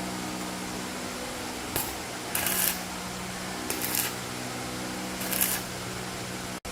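A steady machine hum, broken by four short hissing noises.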